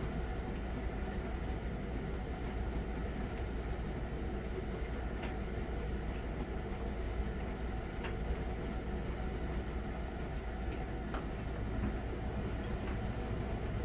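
Miele Novotronic W921 front-loading washing machine running its wash cycle: a steady low rumble from the motor and turning drum, with a few faint clicks.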